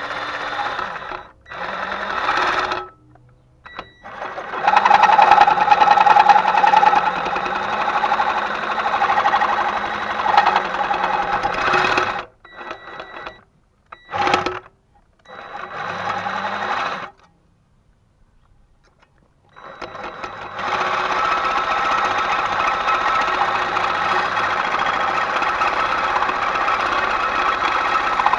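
A handheld electric power tool running in stop-start bursts of a few seconds each, its speed rising and falling. From about two-thirds of the way in it runs steadily.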